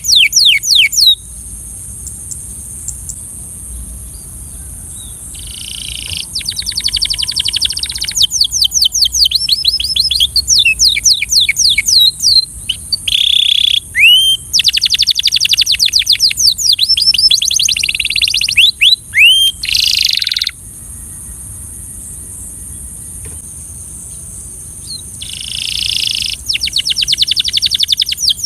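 Belgian canary singing in long, fast trills of rapidly repeated sweeping notes, phrase after phrase, with two pauses of a few seconds, the first soon after the start and the second about two-thirds of the way through. A faint steady high hiss runs underneath.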